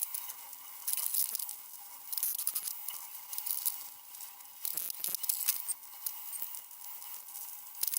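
Electric arc welder crackling and sizzling on steel sheet, in short runs of about a second with brief pauses between them.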